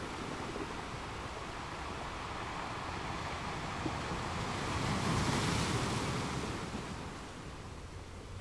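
Wind rushing over the microphone as the camera moves along, a steady noisy rush that swells to its loudest about five seconds in and eases off near the end.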